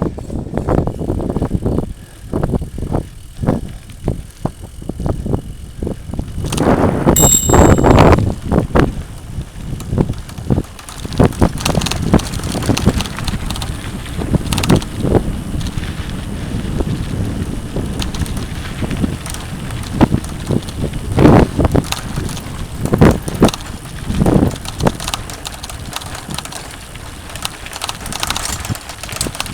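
Mountain bike rattling and clattering over a rough dirt trail, with a constant run of irregular knocks and jolts. The clatter is loudest about seven seconds in, where a brief high-pitched tone rings out.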